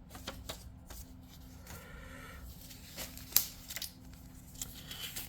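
Paper sheets and small booklets being handled: light rustling and soft taps, with one sharper click a little past halfway, over a faint steady hum.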